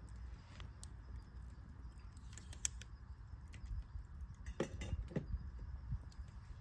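Wood fire crackling: scattered sharp pops and snaps over a low steady rumble, with a few louder pops in the middle.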